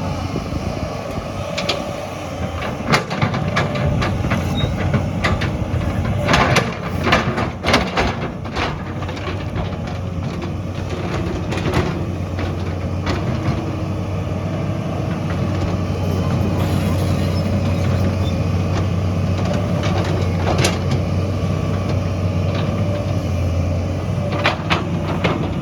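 Heavy construction machine's engine running steadily under load, with repeated sharp metallic clanks and knocks, a cluster of them in the first third and a few more near the end.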